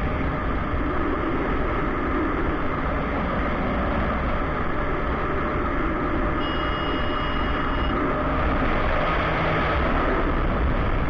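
Motorcycle riding in traffic: steady engine and road noise. A high, steady beep sounds for about a second and a half near the middle.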